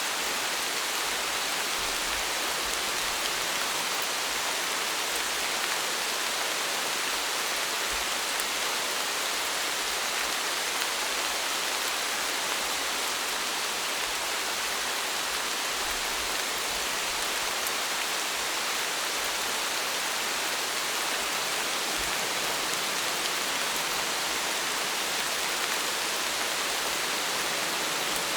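Steady, even rainfall, a dense hiss of drops with faint scattered patters.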